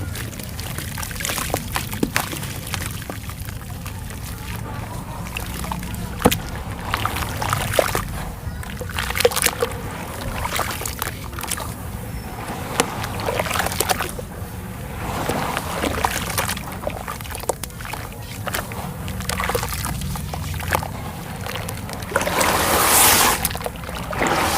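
Red gritty sand being crumbled and dipped in water: crisp crackling and crunching with wet sloshing and splashes, and a longer, louder wet stretch near the end.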